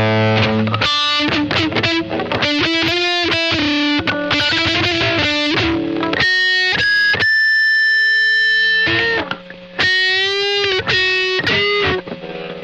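Distorted electric guitar, an Epiphone SG Special with P90 pickups played through a Boss ME-80 multi-effects unit: a chord, then fast single-note lead runs, one long held note in the middle, then more quick runs.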